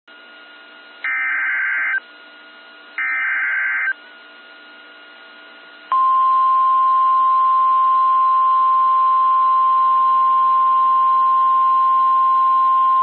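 NOAA Weather Radio alert: two bursts of SAME digital header data tones, each about a second long, over faint receiver hiss. About six seconds in, the loud, steady single-pitch 1050 Hz Warning Alarm Tone begins, signalling an upcoming warning broadcast.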